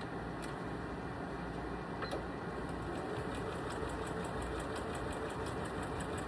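Domestic sewing machine stitching quilting lines: a steady motor hum with a couple of single clicks, then from about halfway in a fast, even ticking of the needle stroke as it sews continuously.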